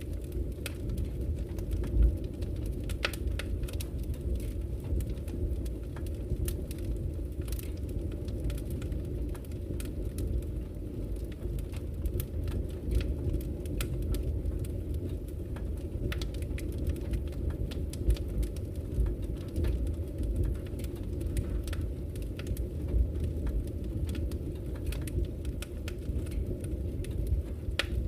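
Wood fire crackling: irregular sharp pops and snaps over a steady low rumble of the burning fire, one louder pop about two seconds in.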